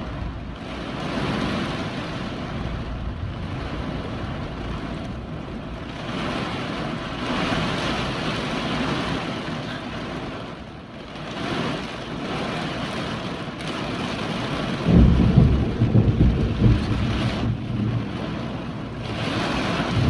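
Hurricane wind and rain, surging in gusts. About three quarters of the way through, strong gusts buffet the microphone with a heavy low rumble, the loudest part.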